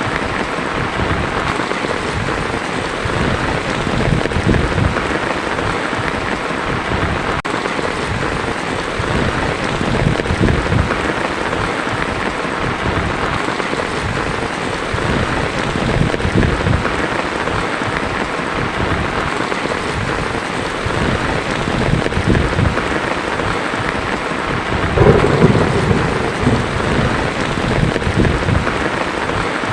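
Heavy rain falling on a tin roof, a steady dense patter, with thunder rumbling low underneath. A louder roll of thunder comes about five seconds before the end.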